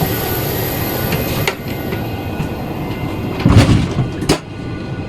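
Steady airliner cabin hum, then a heavy clunk about three and a half seconds in and a sharp click just under a second later: a passenger aircraft door's mechanism being handled as the door is set to armed.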